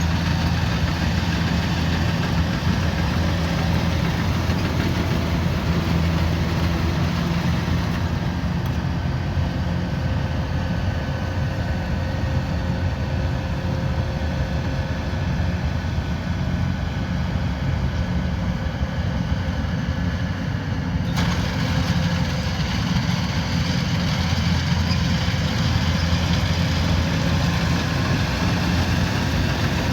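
Kubota rice combine harvester's diesel engine running steadily with a deep hum and machinery hiss. The higher hiss thins about eight seconds in and comes back suddenly about twenty-one seconds in.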